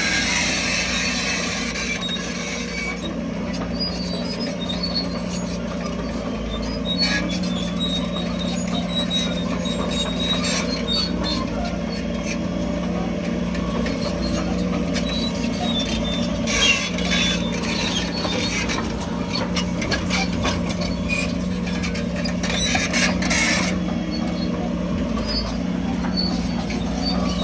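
Crawler bulldozer's diesel engine running steadily, with high squeaks and sharp clanks from its steel tracks scattered throughout.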